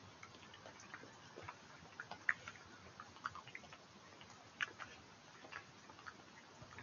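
Badger eating: irregular sharp clicks and smacks of chewing, several a second, the loudest a little over two seconds in. A stream hisses steadily beneath.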